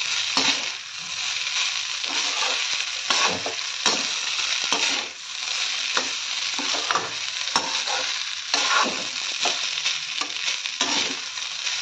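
Fried rice sizzling in a steel kadai while a flat metal spatula stirs and turns it, scraping against the pan with irregular clinks over the steady frying hiss.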